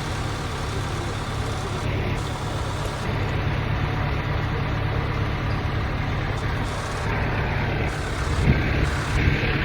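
A steady, low vehicle-engine hum like a truck running, with a couple of short knocks near the end.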